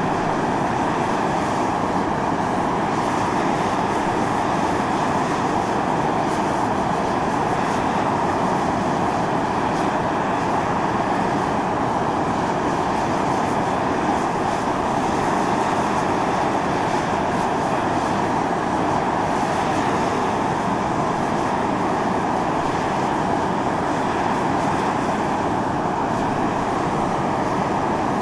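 Volcanic fumaroles of Mt. Io (Atosanupuri) blowing out steam: a steady, unchanging hiss.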